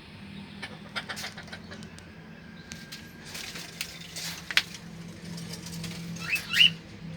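Cockatiel giving two quick rising chirps near the end, over scattered scratchy clicks and rustling and a steady low hum.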